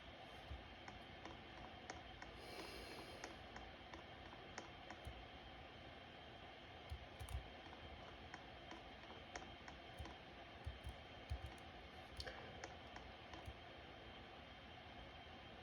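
Faint steady hum of a ceiling fan running, with scattered light clicks at irregular intervals.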